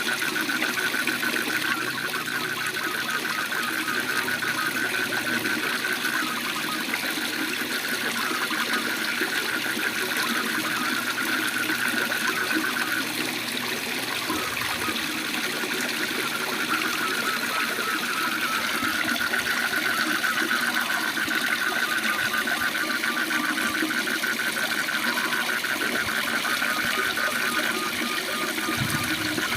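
Waterfall rushing steadily, with frogs calling over it in a rapid, pulsing trill that breaks off briefly about halfway through.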